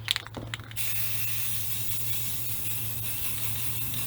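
Aerosol can of Rust-Oleum enamel spray paint spraying in one steady hiss of about three and a half seconds, starting just under a second in.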